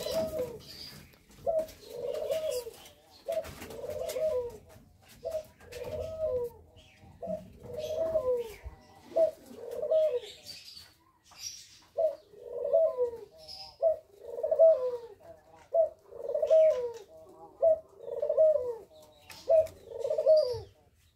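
Pigeons cooing over and over, one phrase about every second, with a short pause near the middle and a few faint high chirps above.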